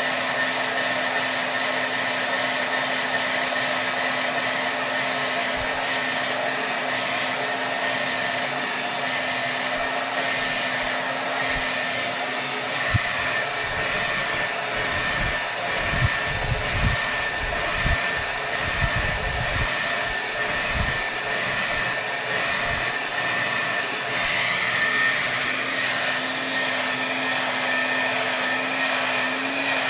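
Hair dryer blowing at its maximum setting: a steady whoosh of air with a faint motor whine. Through the middle comes a run of low, uneven thumps.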